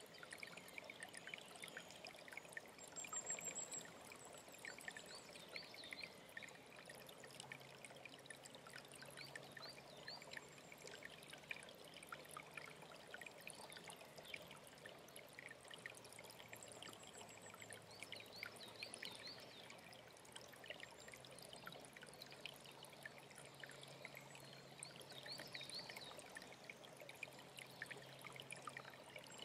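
Alpine stream trickling and pouring steadily, with many small birds chirping and singing over it; a high thin trill sounds a few seconds in and again near the end.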